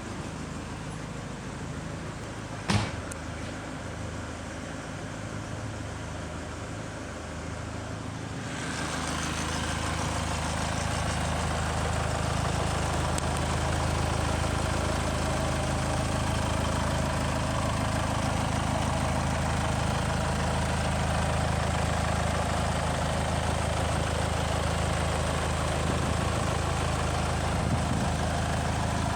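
Ford Mondeo engine idling steadily. There is one sharp knock about three seconds in, and from about nine seconds in the engine sound grows louder and fuller, then stays steady.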